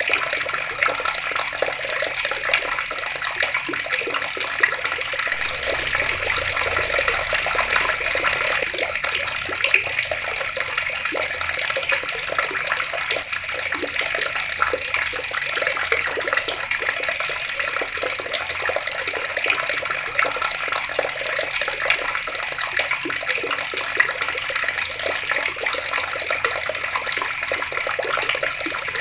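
Water running steadily from an open tap and splashing below it.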